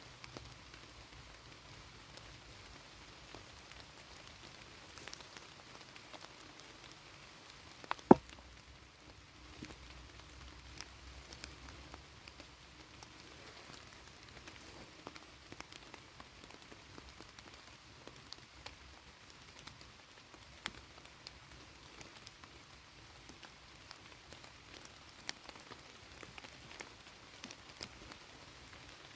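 Steady rain falling, with single drops tapping now and then, and one sharp knock about eight seconds in.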